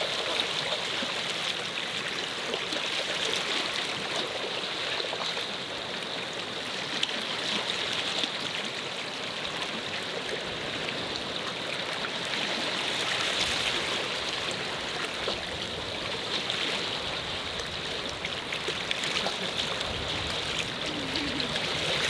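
Water running and trickling: a steady splashing hiss with many small drips and ticks.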